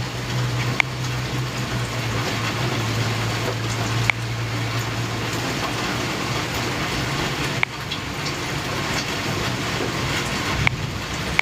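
Steady rain from a thunderstorm, with a few sharp single taps scattered through it and a low hum that fades out about halfway through.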